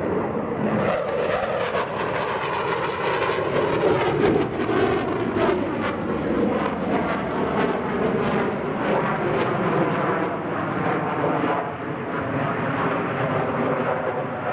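Jet aircraft engine noise: a loud, steady rush with a whine whose pitch slowly shifts.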